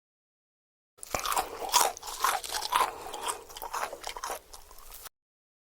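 Crunchy food being bitten and chewed close to the microphone: a run of sharp, repeated crunches that starts about a second in and cuts off suddenly near the end.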